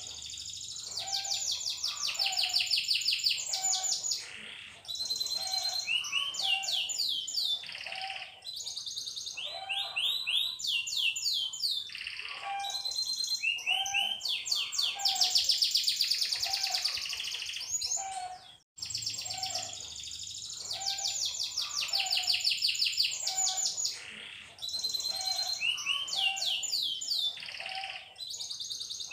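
Canary singing a long, continuous song of rapid rolling trills and quickly repeated sweeping notes, high-pitched, with a brief break about two-thirds of the way through.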